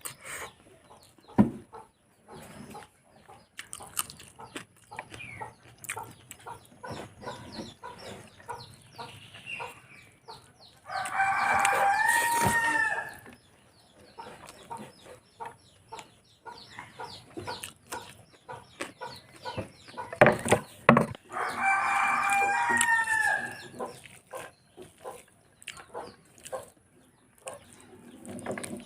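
A rooster crowing twice, each crow about two seconds long, about 11 and 21 seconds in. Between and under the crows there are soft, irregular clicks and smacks of close-up chewing and eating.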